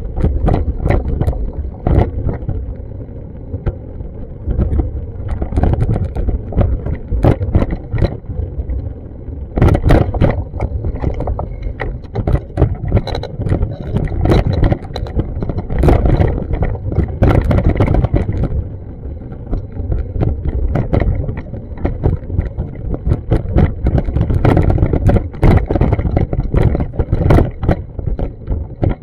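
Wind buffeting and rumbling on an action camera's microphone, swelling and easing, with many irregular sharp clicks and knocks.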